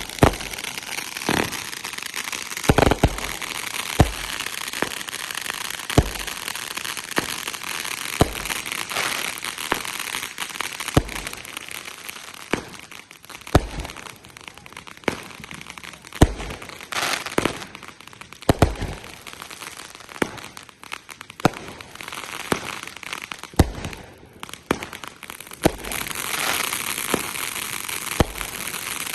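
Fireworks going off: sharp bangs at irregular intervals of a second or few, over continuous crackling.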